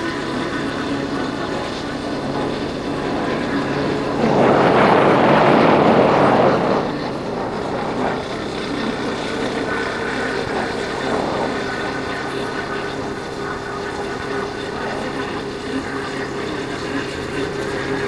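Yamaha Factor 150's single-cylinder engine running steadily under way, a constant drone with wind and road noise. From about four to seven seconds in, a louder rushing noise swells and dies away.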